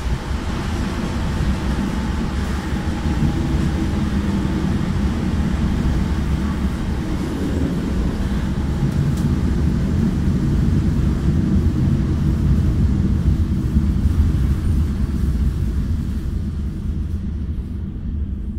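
Passenger train running noise heard inside the carriage: a steady rumble of wheels on the rails. Near the end it dies away as the train slows to a stop at a station platform.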